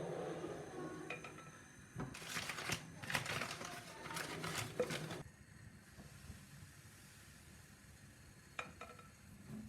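Plastic crinkling and rustling for about three seconds, then a few light clicks near the end.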